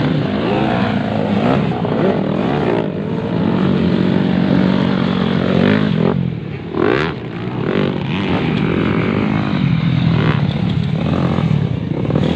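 Several motocross bikes running together, their engines revving up and down and overlapping. About six and a half seconds in the sound drops briefly, then one bike accelerates hard.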